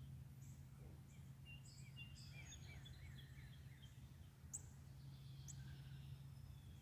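Faint songbird calls: scattered high chirps and, about two seconds in, a quick run of repeated downslurred whistles, over a steady low hum.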